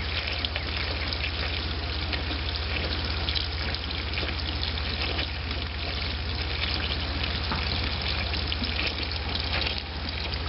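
Water running and splashing steadily as muddy water is flushed out of a furnace's heat exchanger, with a steady low hum underneath.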